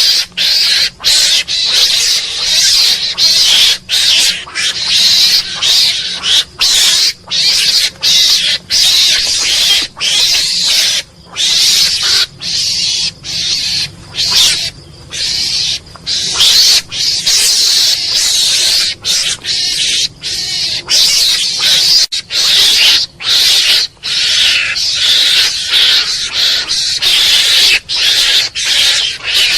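Mongoose calling: a steady run of harsh, high-pitched calls, one after another, with brief breaks between them.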